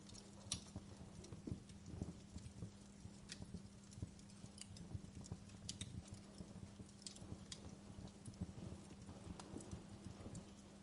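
Wood fire crackling: irregular sharp pops and snaps, about one or two a second, over a soft low rumble and a faint steady hum.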